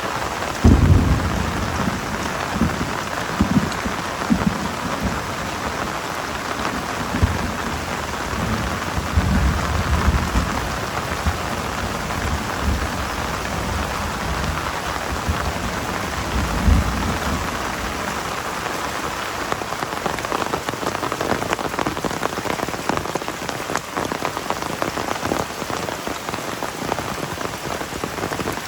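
Heavy rain falling steadily. Patchy low rumbles come and go during the first half, the strongest about a second in, then die away.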